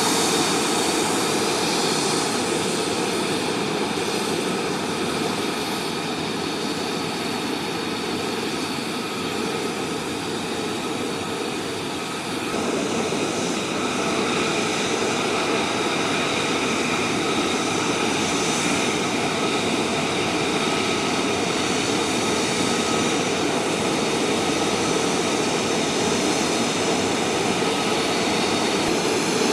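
F-35 Lightning II jet engine running steadily on the ground, a continuous rush with a steady high whine. It gets a little louder about twelve seconds in.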